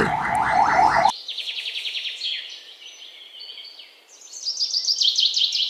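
Birds singing in rapid, repeated high trills. In the first second a louder, lower rapid trill runs, then cuts off abruptly.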